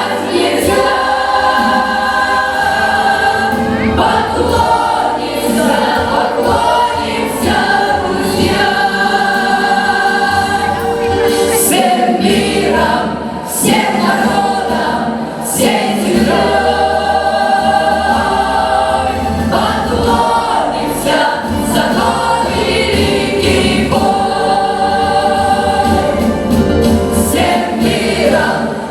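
Vocal ensemble singing in harmony in long held phrases, over an instrumental backing with a steady bass line.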